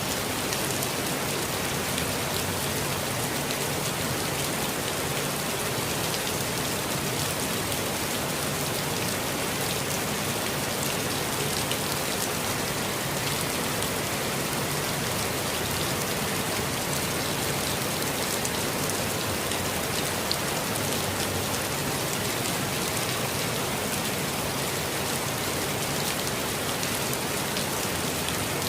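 Steady rain falling, an even hiss of rainfall with many small drop patters, without let-up.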